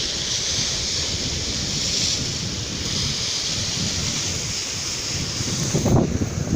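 Sea surf washing steadily, with wind buffeting the microphone and a stronger gust about six seconds in.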